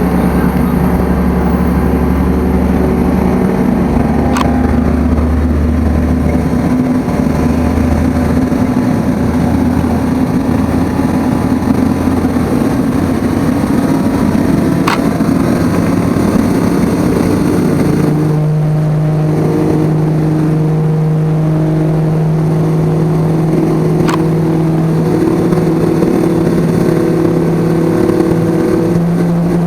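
Steady engine noise with low droning tones that change pitch about 18 seconds in, with a few faint clicks.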